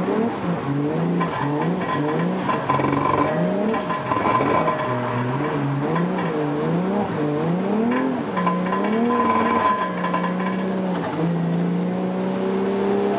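Toyota JZX100's engine revving up and down in quick, repeated swings while the car is drifted, then holding a steady pitch for the last few seconds.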